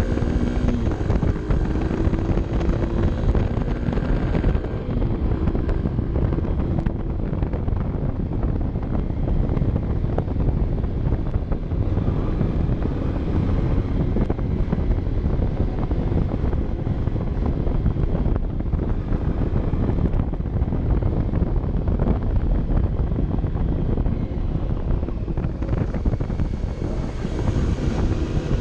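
Honda CB 125 F's single-cylinder four-stroke engine running on the move, with wind rushing over the microphone. The engine note is clear for the first few seconds, sinks under the wind noise after about four seconds, and comes back near the end.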